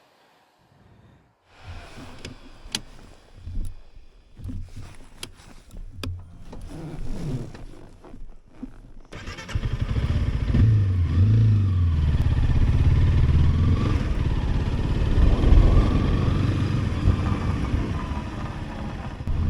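Scattered clicks and knocks of handling gear on the motorcycle for several seconds. Then, about nine seconds in, the Honda CRF300L Rally's single-cylinder engine starts up and runs steadily.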